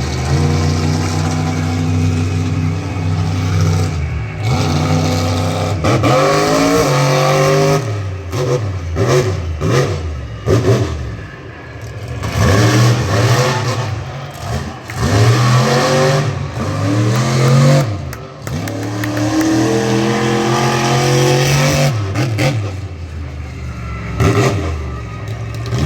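Monster truck engine, loud and running steadily at first, then revving hard up and down again and again, its pitch rising and falling, before settling back near the end.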